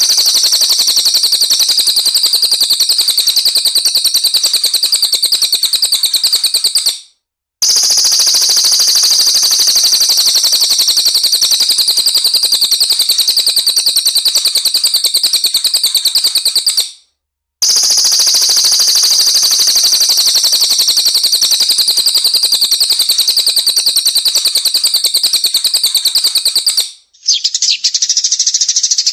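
Songbird singing a 'tembakan', a dense, very fast rapid-fire trill of high notes, in long runs. The runs stop briefly about 7 and 17 seconds in, and a different, duller bird recording begins near the end.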